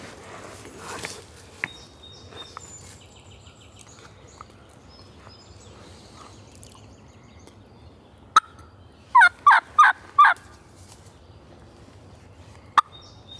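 Turkey call worked as a hen's yelp: four loud yelps in quick succession about nine seconds in, calling to a gobbler. A sharp click comes just before them and another near the end, with faint bird chirps in the background.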